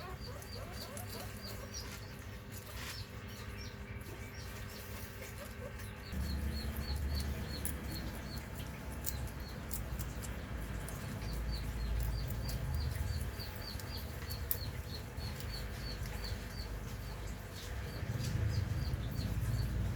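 Small animal chirping: short high chirps repeated about four times a second, with a pause partway through. Scattered light clicks and a low rumble run under it.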